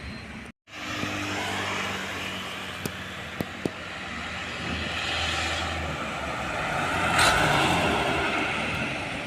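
Road traffic after a brief dropout just after the start: a vehicle's engine and tyre noise, growing louder as it passes close about seven seconds in. A few sharp clicks are heard around three seconds in.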